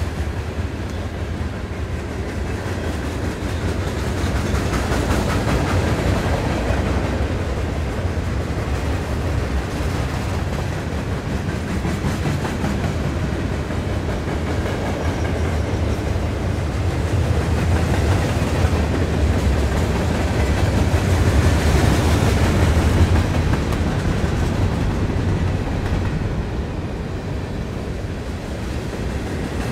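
Train rolling past, a continuous low rumble of railcars and wheels on the rails that swells twice and eases.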